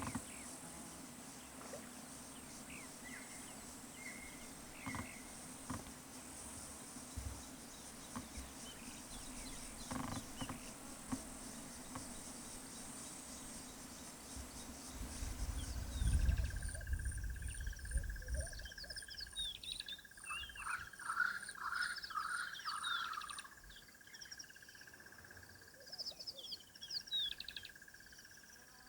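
Outdoor wildlife sounds. For about the first half, insects keep up a steady high-pitched buzz. Then the sound changes: several birds call with quick chirps over a steady whistling drone and a faint ticking pulse of about two a second.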